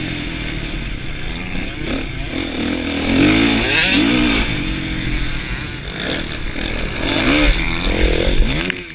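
Kawasaki KX450F's single-cylinder four-stroke engine being ridden hard, its pitch rising and falling again and again as the throttle is opened and rolled off. Near the end there are a few sharp clicks and the engine note drops off.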